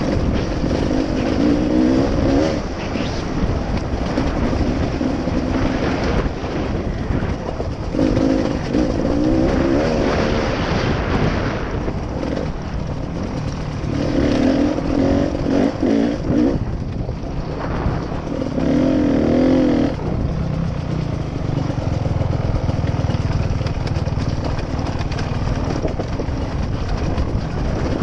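Motorcycle engine revving up and down in repeated bursts a few seconds apart, over a steady rush of noise, then settling to a lower, steadier run for the last several seconds.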